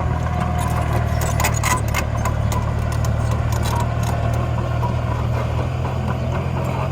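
Steady low engine drone of miniature construction machines working, with scattered clicks and scrapes of soil and stones being moved.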